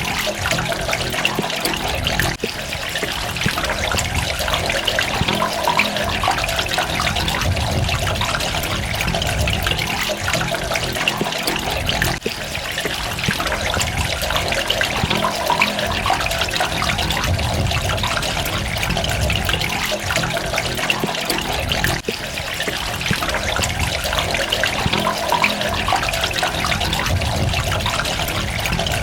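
Running water trickling and splashing in a continuous, steady flow with a bubbling texture.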